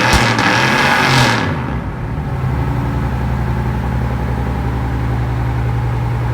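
Cadillac Coupe deVille V8 through a custom exhaust: a rev that falls away in the first second or so, then a steady idle.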